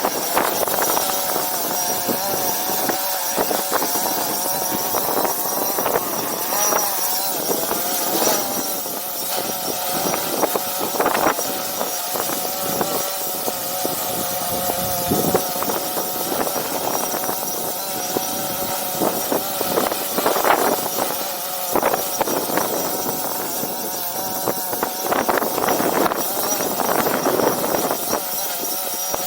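Multirotor drone propellers humming steadily, their pitch wavering slightly as the drone is buffeted. Wind rushes on the microphone throughout.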